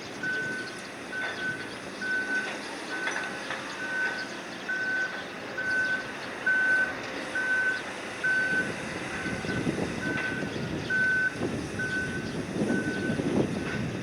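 Backup warning beeper sounding a steady single-pitched beep about once a second, over engine rumble and wind noise that swell in the second half.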